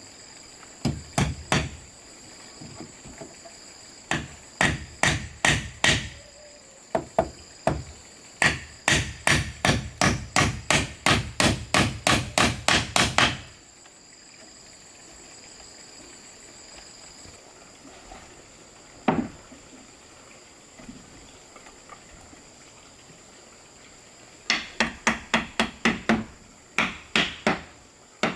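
Sharp striking blows on wood, in runs. There are a few strikes, then about six, then a long steady run of about three strikes a second that stops about halfway through. A single blow follows later, then another quick run near the end. Insects shrill steadily underneath.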